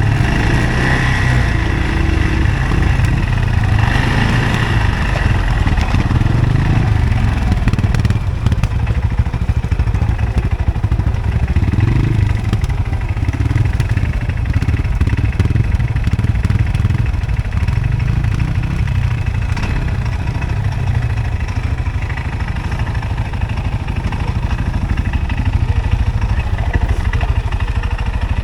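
CFMoto ATV engine running steadily, the revs rising and falling a little.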